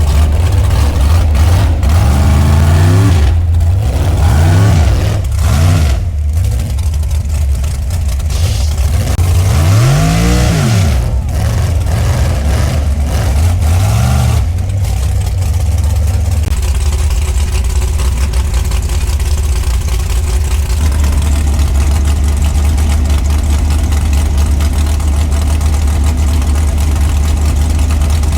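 Truck engine revving up and down several times, then running at a steady pitch through the second half, with occasional knocks and clunks.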